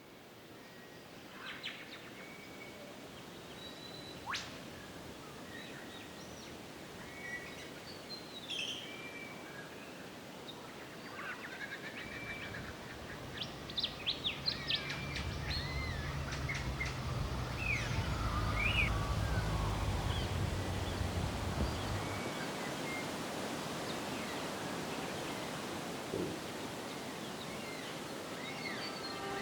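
Several birds chirping and whistling in short, scattered calls over a steady outdoor background hiss. A low steady rumble runs underneath for about ten seconds in the middle.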